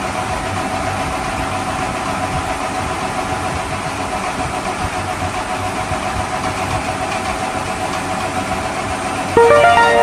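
Recorded engine-idling sound effect, steady and even, of the kind played by a toy vehicle's sound unit. About nine seconds in, a louder horn-like sound of several steady tones starts.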